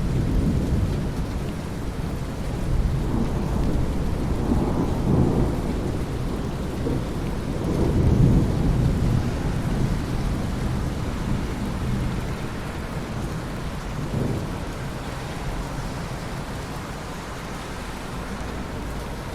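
Thunderstorm: steady rain with low rolling thunder that swells to its loudest about eight seconds in, rumbles briefly again near fourteen seconds, then dies away under the rain.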